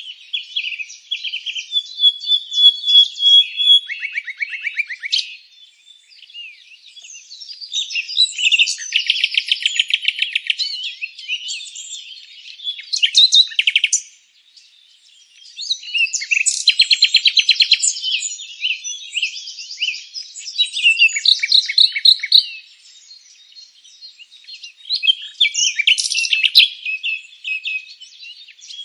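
Songbirds singing: overlapping chirps and fast trills in phrases a few seconds long, with short pauses between them, all high-pitched and without any background hum or wind.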